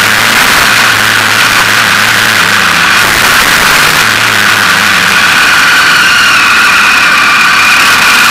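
KTM off-road motorcycle engine running, its pitch shifting every second or so, under a loud steady rush of wind and road noise on an action camera's microphone.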